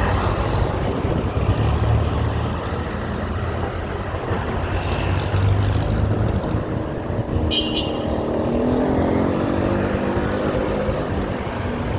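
Street traffic: motor vehicle engines running past with a steady low rumble, one engine rising in pitch about nine seconds in. A short sharp click about seven and a half seconds in.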